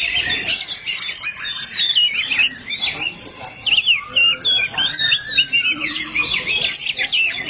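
Oriental magpie-robins singing against each other: a dense, continuous run of rapid, varied whistles and chirps.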